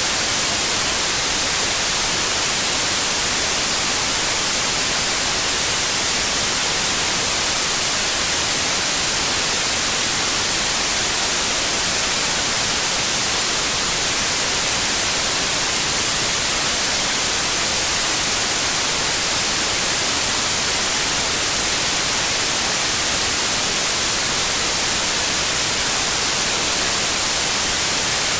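Continuous white noise: a steady, even hiss with most of its energy in the high frequencies and no changes in level.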